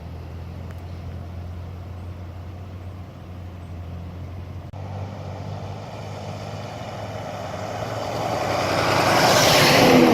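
Road vehicles on a highway: a steady low engine drone, with the rush of a passing vehicle building to a loud peak near the end and then fading.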